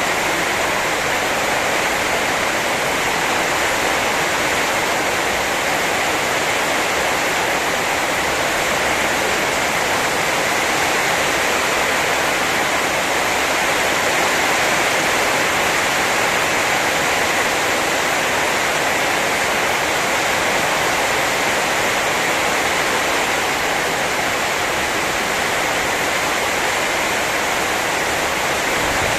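Heavy storm rain pouring down in a steady, unbroken hiss.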